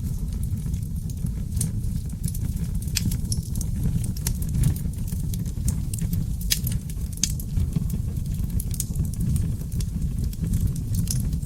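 Log fire burning in a fireplace: a steady low rumble of flames with frequent sharp crackles and pops from the seasoned oak logs, scattered irregularly and a few standing out louder.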